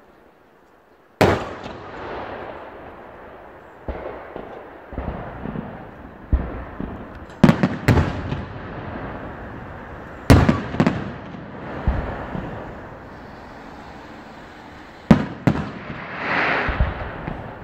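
Large aerial firework shells of a professional display bursting: about a dozen sharp bangs, the first about a second in and the loudest in the middle, each trailing off in a rolling echo, with a crackling, hissing swell near the end.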